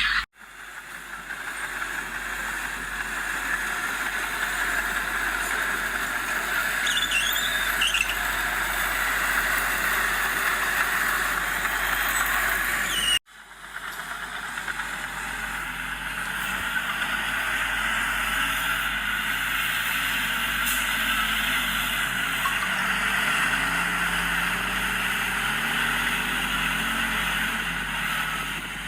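Heavy diesel earthmoving machinery running steadily, with brief high squeals about seven seconds in and the engine note rising and falling in the second half. The sound cuts off abruptly twice, just after the start and about halfway through.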